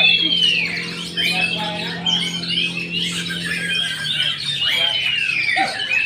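Oriental magpie-robin (kacer) singing a fast, varied song of chirps and harsh squawks, with two long downward-sliding whistles, one at the start and one near the end. A steady low hum underneath fades out about two-thirds of the way through.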